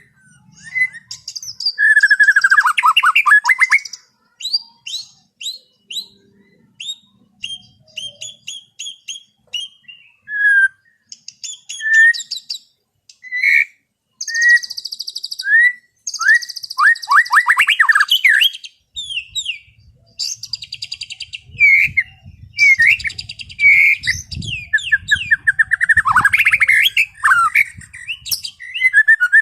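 White-rumped shama (murai batu) singing clear, open song, in phrases of varied whistles, quick series of repeated notes and fast trills, with short pauses between the phrases.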